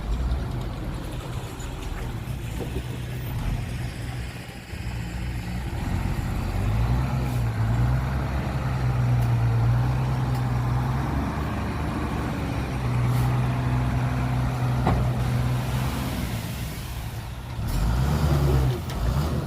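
Heavy diesel engine of earthmoving machinery running under working load, its pitch rising and falling as the load changes and getting louder about six seconds in.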